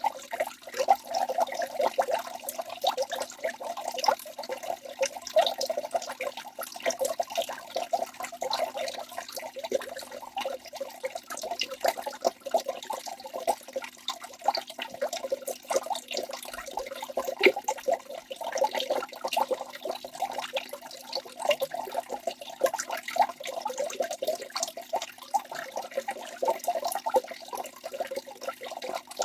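Waterfall: water falling and splashing without pause, a dense run of small splashes and gurgles over a steady rush.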